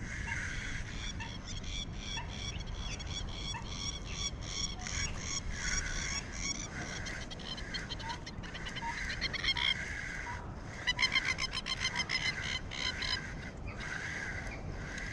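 Birds calling in quick runs of short repeated notes, with a faster, louder run of calls about two-thirds of the way through, over a low steady background rumble.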